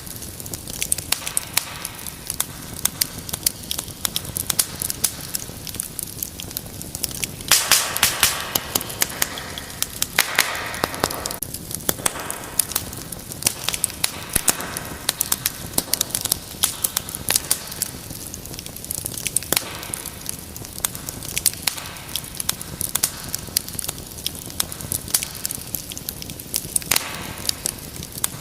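Wood fire burning in a fireplace, crackling and popping with many sharp snaps over a steady low hiss. Spells of louder, denser crackling and hissing come about a third of the way in and again near the end.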